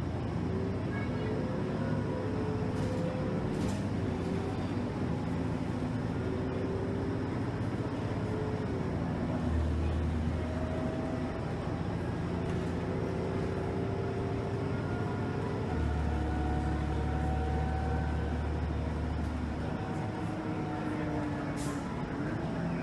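Motor coach engine and drivetrain running while the bus drives, heard from inside the passenger cabin. A low rumble is heavier in two stretches, and a faint whine slowly rises and falls in pitch as the bus changes speed.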